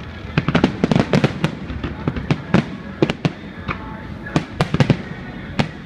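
Aerial fireworks bursting: quick clusters of sharp bangs and cracks, several a second, with short gaps between the volleys.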